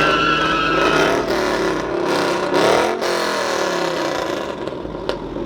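A car engine revving, its pitch climbing to a peak about three seconds in and then falling away.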